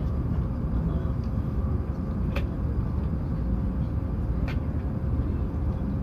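Steady low rumble of an E7/W7-series Hokuriku Shinkansen running, heard from inside the passenger cabin, with a faint hum and two faint clicks about two seconds apart.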